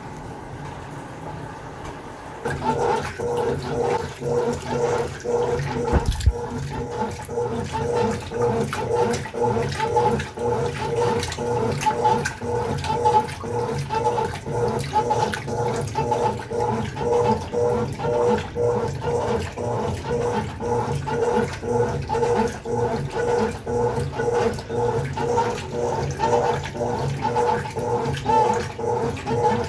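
Consul Facilite 11 kg washing machine in its wash stage, agitating the load. From about two and a half seconds in, a motor hum and sloshing water pulse in a steady, regular rhythm.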